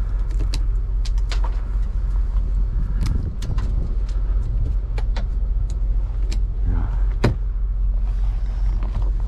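Semi-truck engine idling as a steady low rumble, with scattered sharp clicks and knocks of ice and wiper parts being handled close by.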